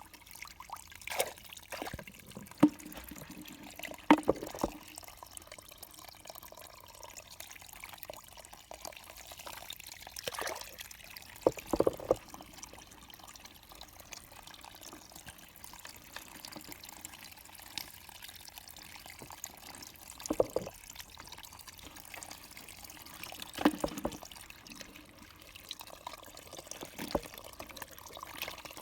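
Water trickling, with irregular splashes and drips every few seconds.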